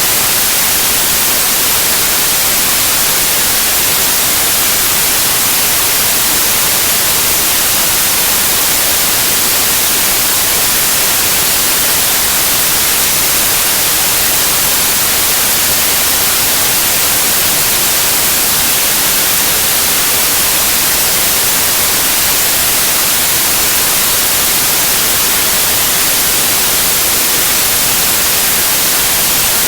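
Synthetic white noise: a steady, unchanging hiss, strongest in the treble.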